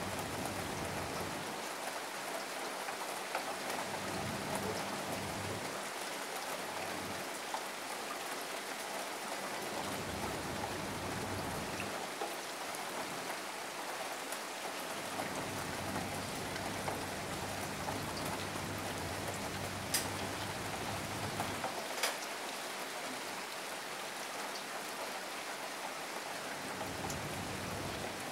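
Steady rain falling, an even hiss with scattered drop ticks and two sharper ticks in the second half.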